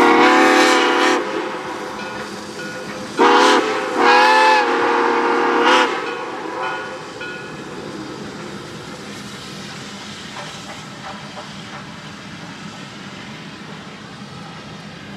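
Steam locomotive whistle blowing three blasts, long, short, then long, each a chord of several steady tones that bends slightly as it opens. The train's running noise follows.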